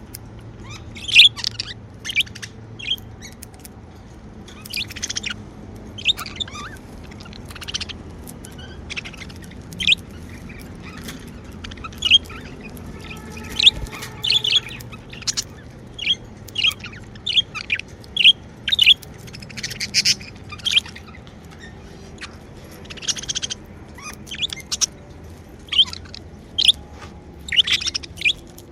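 Pet budgerigars chirping: short, high chirps coming irregularly, sometimes several in quick succession.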